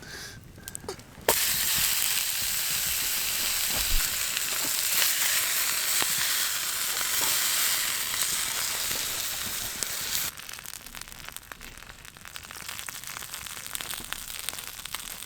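Food frying in a hot pan over a campfire: a loud, even sizzle starts suddenly about a second in and drops away abruptly about ten seconds in, leaving a quieter sizzle with scattered crackles.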